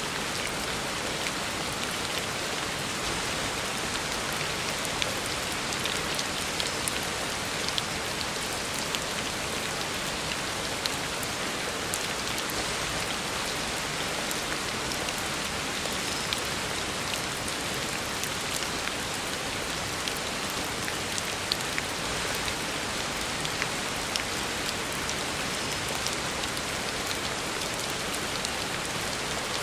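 Heavy rain falling steadily on a road surface: a dense, even hiss with scattered sharper drop ticks.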